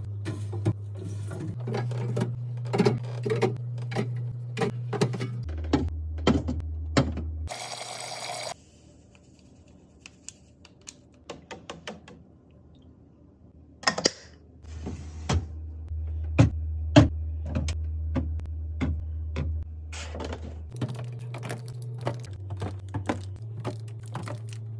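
Items being set into a drinks fridge: a run of light clicks, taps and knocks, some sharper than others. Under them is a low steady hum that shifts pitch every few seconds, with a short hiss about eight seconds in and a quieter stretch of small ticks after it.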